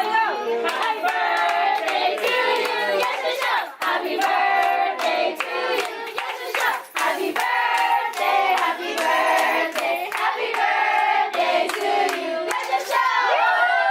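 A group of people singing together, with hand claps throughout.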